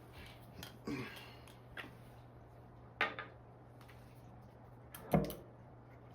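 Light handling clatter of small items on a workbench: a few short knocks and clinks, the loudest about five seconds in, over a steady low hum.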